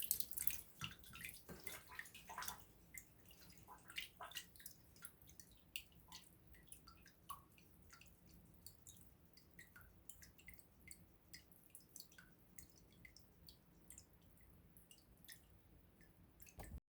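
Campfire firewood crackling faintly with irregular small pops and snaps, busier in the first few seconds and sparser after.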